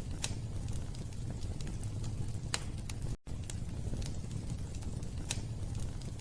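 Wood fire burning in a fireplace: a steady low rumble with sharp crackles and pops, the loudest about two and a half and five seconds in. The sound cuts out for an instant about three seconds in.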